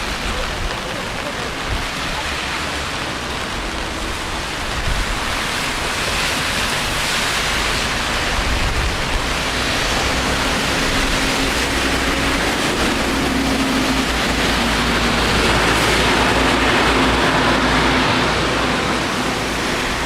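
Steady hiss of rain and wet city street noise, growing louder in the middle and easing off near the end.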